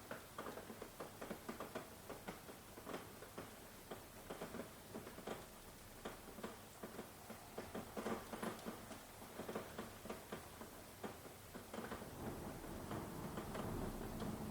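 Rain falling in close, irregular drops that tick and patter on a surface. Near the end a low rumble of distant thunder builds.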